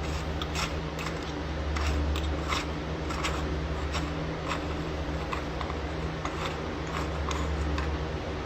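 Irregular small clicks and scrapes, one or two a second, as an old spring-type hatch strut is worked apart by hand, over a steady low hum.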